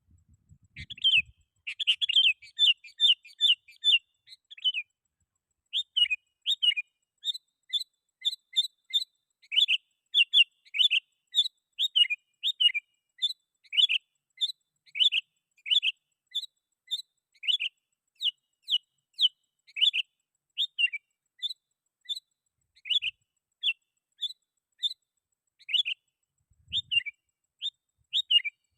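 Sooty-headed bulbul (kutilang) calling vigorously in a long string of short, clear whistled notes. There is a quick run of notes about two to four seconds in, then steadier notes about one to two a second.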